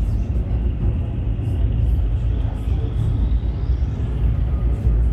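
Running noise of a 71-911EM "Lvyonok-M" low-floor tram heard from inside the passenger cabin: a steady low rumble, with a faint high tone rising in pitch around the middle.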